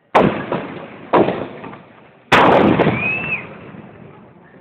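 Three loud firework bangs about a second apart, each followed by a long echoing rumble, with a short high whistle rising and falling after the third.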